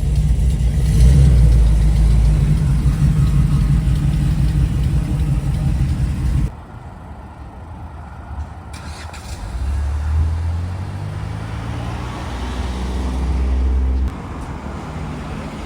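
Car engines and exhausts: a loud engine running with a deep drone, cut off abruptly about six seconds in. Then, after a quieter stretch, a car accelerates with rising pitch until another sudden cut.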